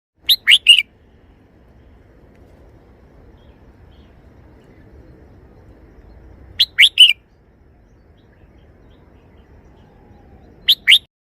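Red-whiskered bulbul singing three short phrases of quick whistled notes, three notes to a phrase. The phrases come near the start, about six and a half seconds in, and near the end, with a faint low hum between them.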